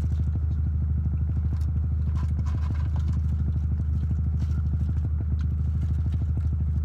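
Car engine idling steadily, heard from inside the cabin as a low, evenly pulsing hum, with a few faint clicks and crinkles.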